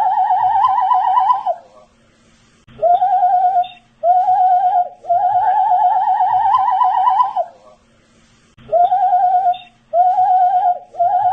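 A man whistling a repeated tune: two short notes, then a longer wavering note that climbs slightly in pitch, then a short pause, over and over.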